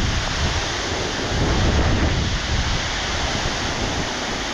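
Waterfall in full spate after heavy rain, a steady rush of water, with wind buffeting the microphone in an uneven low rumble.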